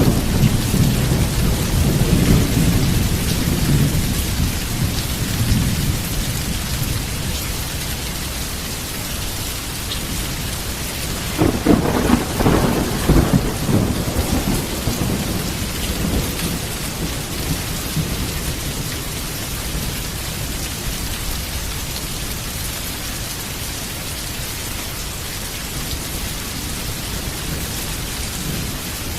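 Heavy rain falling steadily, with thunder: a deep rumble dying away over the first few seconds, then a second clap and rumble about twelve seconds in.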